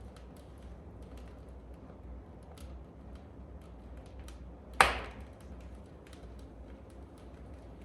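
Wood fire crackling in a fireplace, with scattered small ticks and one loud pop about five seconds in that dies away quickly.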